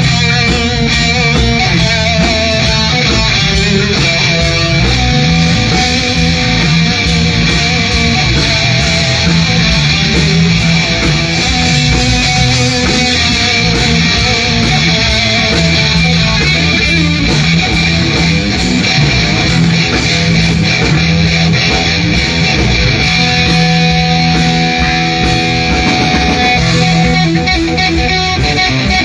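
A band playing an instrumental passage, electric guitar to the fore over a steady bass, with no singing.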